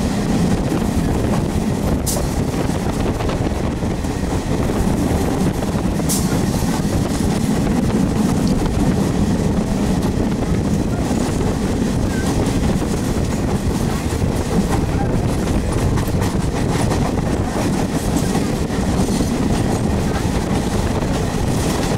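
Passenger train running along the track, heard from an open coach window: steady, low running noise of the wheels on the rails, with two brief sharp clicks about two and six seconds in.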